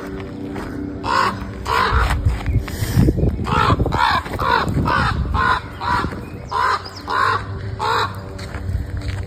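Crows cawing, a rapid series of about a dozen harsh caws starting about a second in.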